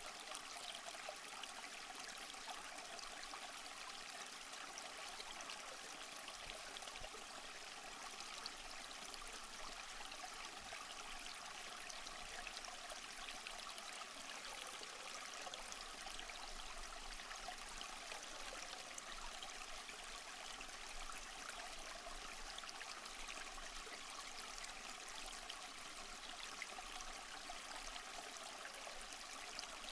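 Faint, steady rush and trickle of water running at a frozen waterfall.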